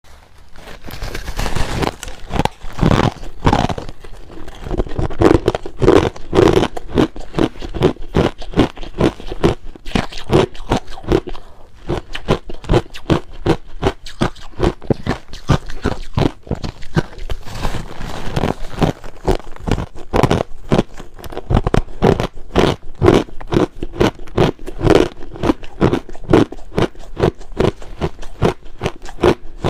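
A person chewing crushed ice with milk powder: a steady run of rapid, loud crunches, several a second, throughout.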